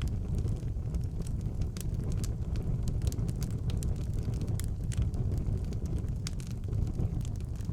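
Wood fire burning in a fireplace: a steady low rumble of the flames with scattered sharp crackles and pops at irregular moments.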